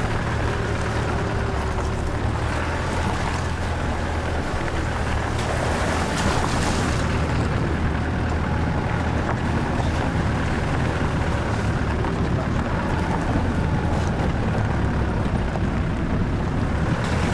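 Engine and tyre drone of a car driving slowly along a rough unsealed green lane, heard from inside the cabin. There is a steady low hum with a few faint knocks.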